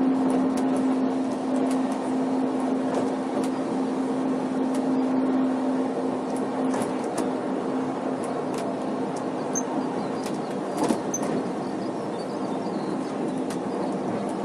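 Rack-and-pinion mountain railway train climbing, heard from the carriage: steady running noise with a steady hum that fades about halfway through, and scattered clicks and knocks from the wheels and rack.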